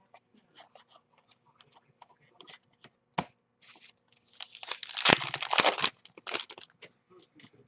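A trading card pack wrapper being torn open: light handling clicks, a sharp snap a little after three seconds, then a rough tearing and crinkling burst of about a second and a half from just past four seconds in.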